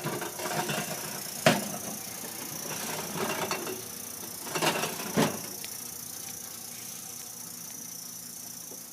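Three sharp knocks and some softer clattering with a steady low background, from things being handled in an open beer fridge.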